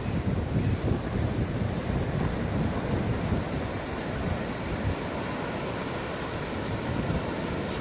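Ocean waves washing onto a beach, a steady surf wash with gentle swells, with wind buffeting the microphone.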